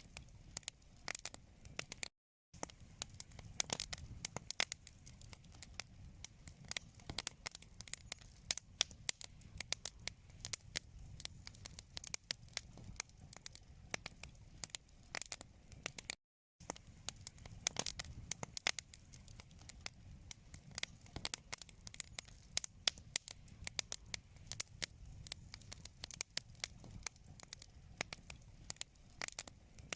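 Wood fire crackling and popping in a fireplace: dense, irregular sharp pops over a low rumble of burning. The sound drops out completely twice, briefly, a couple of seconds in and about halfway through.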